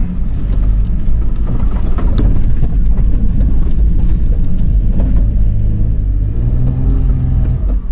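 2013 Toyota 4Runner's 4.0-litre V6 engine running hard under heavy throttle, pulling the truck up a sand dune. It is a loud, steady rumble that builds about a second in and eases off near the end, with scattered knocks.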